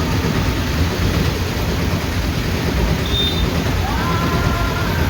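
Steady road and traffic noise from moving vehicles, heaviest in the low rumble, with a held tone sliding up and coming in about four seconds in.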